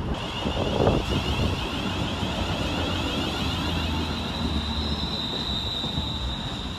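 Class 350 Desiro electric multiple unit pulling into the platform: a high, slightly warbling whine that rises a little in pitch partway through, over a low rumble, with a single knock about a second in.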